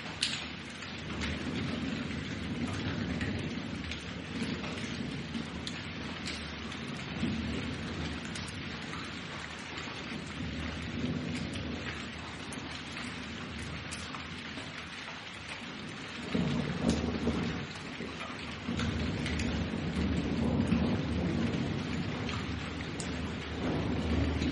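Thunderstorm: steady heavy rain hissing with close drops pattering on a surface, under rolling thunder that swells loudest about two-thirds of the way in and again near the end.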